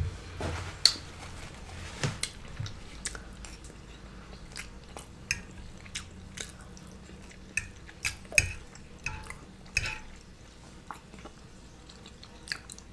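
Close-miked chewing of scrapple and scrambled eggs: irregular soft, wet mouth clicks and smacks.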